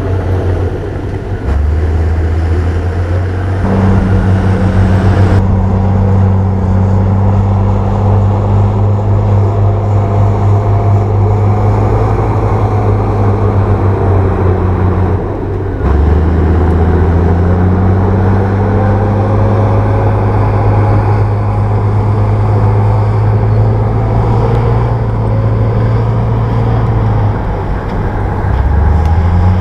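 Bulldozer's diesel engine running hard under load, a loud steady low drone whose pitch steps down and back up several times as the load and revs change.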